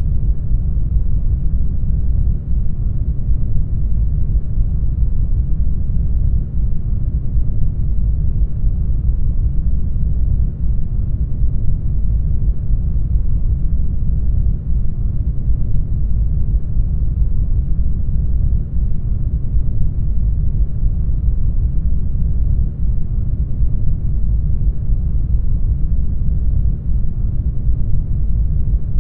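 Steady brown noise: a deep, even hiss, heaviest in the low end and thin in the highs, unchanging throughout.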